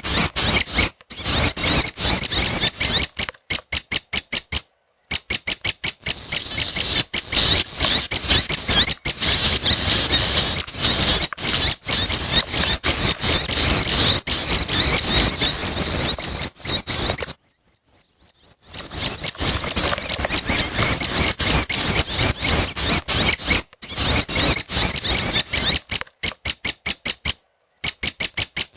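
Prenjak (prinia) fledglings calling: rapid runs of short, high-pitched chirps repeated many times a second, with a brief pause a little past the middle.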